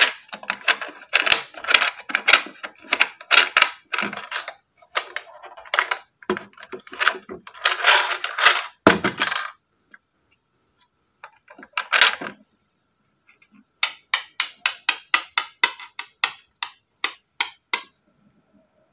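Small plastic clicks, taps and rattles from a toy mini vending machine being handled. The clicks come thick and fast at first, then there is a single sharp knock, then an even run of clicks at about four or five a second near the end.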